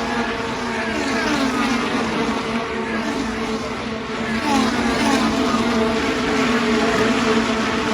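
IndyCars' 2.2-litre twin-turbo V6 engines at racing speed, one car after another passing through the turn with the pitch of each dropping as it goes by. The passes overlap continuously and grow a little louder about halfway through.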